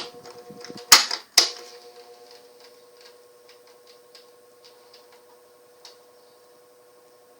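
Motor of a Britânia SL 30 cm table fan from 1975/1980 humming steadily. Sharp mechanical clicks come at the start and twice about a second in. After them the deeper rumble drops away, and faint light ticks continue over the hum.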